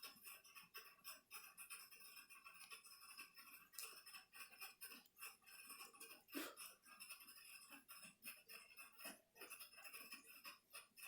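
Near silence: a faint steady hiss with a few light clicks and taps from handling the opened laptop's parts.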